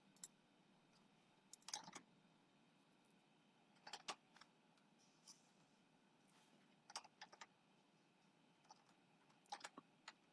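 Faint computer keyboard keystrokes and clicks, coming in small scattered clusters every second or two over near silence.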